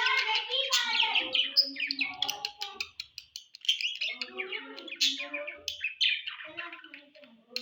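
Budgerigars chattering, a dense run of quick chirps and warbles with a brief lull about three seconds in.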